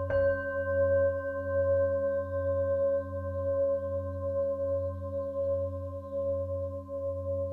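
Singing-bowl meditation music: a bowl is struck right at the start, and its layered tones ring on steadily with a slow wavering throb.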